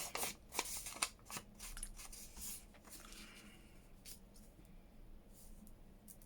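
Paper and card being handled: faint rustling and small taps and clicks through the first three seconds, then quieter.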